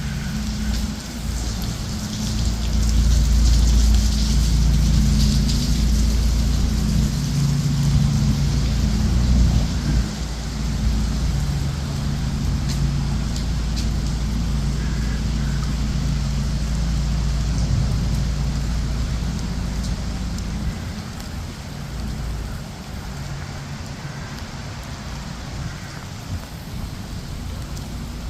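Steady rain falling. Under it a heavy low rumble builds about two seconds in and holds until about twenty seconds, then eases.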